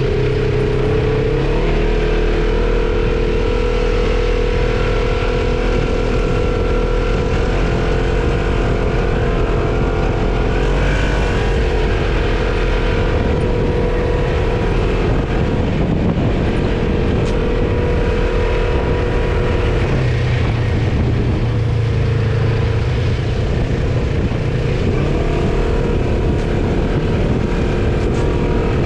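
Quad bike engine running at a steady throttle, its pitch stepping up or down a few times as the speed changes.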